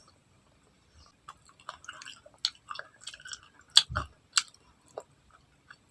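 A person chewing food close to the microphone: soft, irregular wet clicks and smacks of the mouth, a few sharper ones clustered around the middle.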